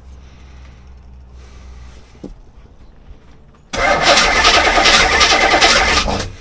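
Corvette's 350 V8 cranked over by its starter for about two and a half seconds, starting suddenly nearly four seconds in, sounding terrible and not settling into a run.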